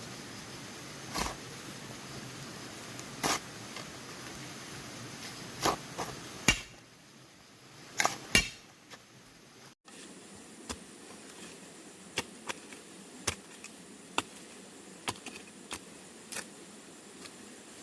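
Irregular knocks and taps of hand tools working bamboo. There are several louder strikes in the first half, then, after an abrupt change in the background about ten seconds in, lighter and quicker ticks.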